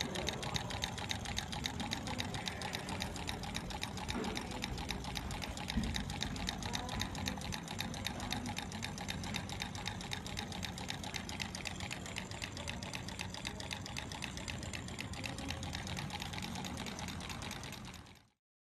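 Homemade Stirling engine running steadily at speed, its wire crankshaft, guide rods and CD flywheel making a rapid, even mechanical clatter; it is being driven by the flame under its can, running at its normal heated state. The sound cuts off abruptly near the end.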